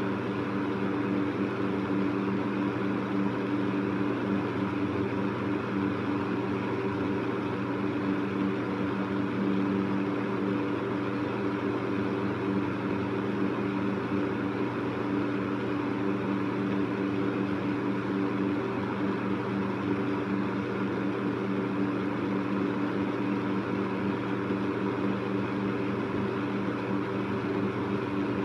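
Electric fan running steadily: an even rush of moving air over a constant motor hum.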